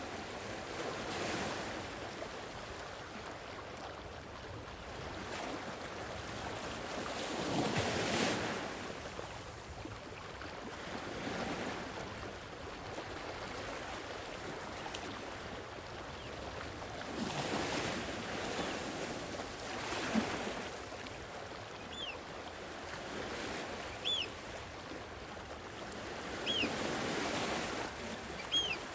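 Sea waves washing in and breaking, swelling and ebbing every several seconds, the largest surge about eight seconds in. In the second half a few short high chirps come about every two seconds.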